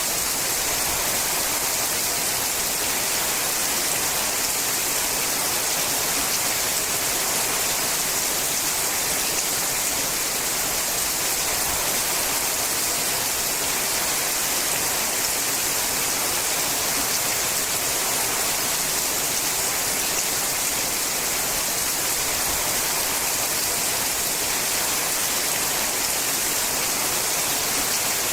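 Steady rain falling on a sheet-metal roof, a dense, even hiss of drops that stays at one level throughout.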